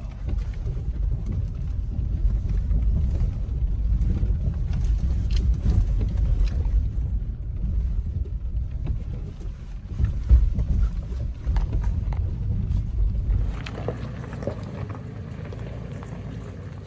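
Low rumble of a 2018 Toyota 4Runner TRD Off-Road on a rough trail, with scattered knocks and clicks. The rumble drops off about thirteen seconds in.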